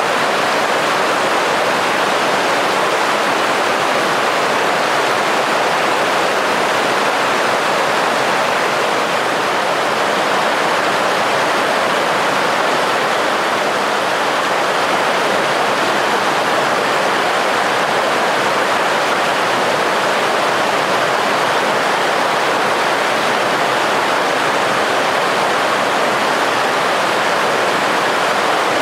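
Rushing water from fast-flowing snowmelt water close by, a steady, loud, unbroken rush.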